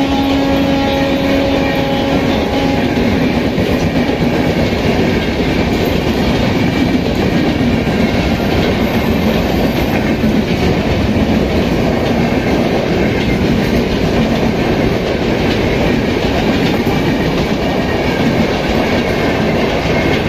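Long-distance express passenger coaches passing at speed right beside the platform, a loud, steady rush of wheels on the rails. A held horn note fades out in the first two or three seconds.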